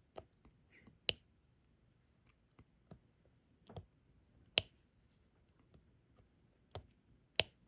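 Diamond-painting drill pen tapping resin drills onto the sticky canvas: a string of light, irregular clicks, the sharpest about a second in, near the middle and near the end.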